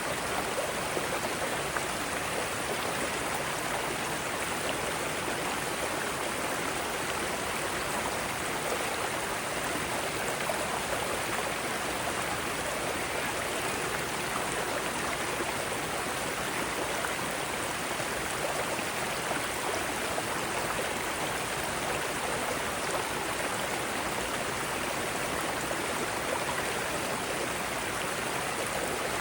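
Mountain stream running over rocks in small cascades, a steady, even rush of water.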